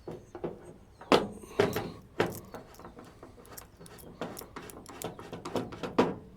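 A series of sharp metallic clicks and clanks from handling and fitting a replacement door latch in a 1963 Chevrolet C10 pickup door. The loudest come about a second in, and again just before the end.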